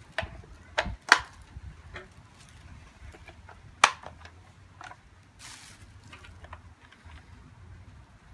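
Plastic parts of a Roomba 780 robot vacuum being handled and fitted together: a string of sharp clicks and knocks, the loudest about a second in and just before four seconds in.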